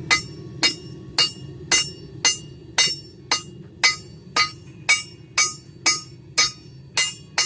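Hand hammer striking a hot railroad spike on an anvil at an even pace, about two ringing blows a second, drawing out the metal.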